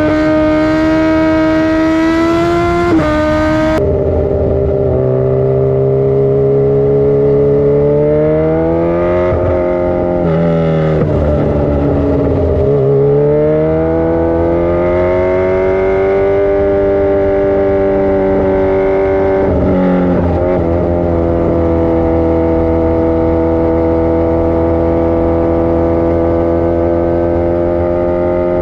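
Dirt bike engine running under steady throttle, its pitch falling as the throttle eases and rising again a couple of times midway.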